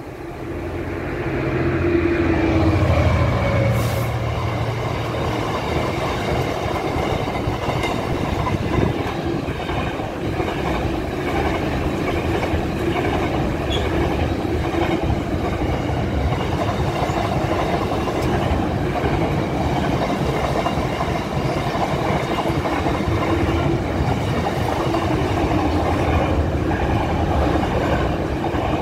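Container freight train on flat wagons passing over a level crossing: the sound rises about a second in as the train arrives, then the wagons roll past steadily.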